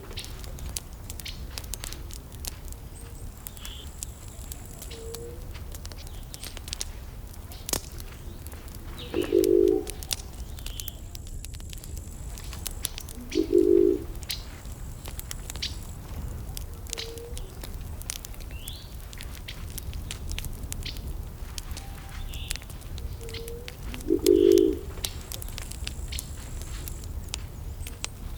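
Wood fire crackling with frequent sharp pops over a low rumble. A low hooting call, each about half a second long, sounds three times and is the loudest thing heard, with faint high chirps in between.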